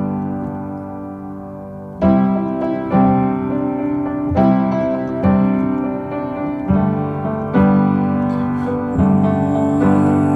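Instrumental passage of a pop song, with no singing: piano chords struck about once a second, each ringing out and fading before the next.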